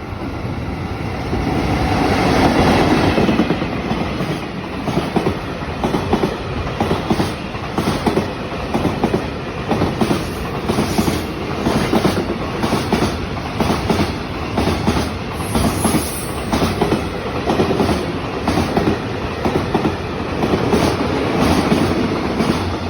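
Freight train hauled by an EF65 electric locomotive passing, its wheels clattering rhythmically over the rail joints.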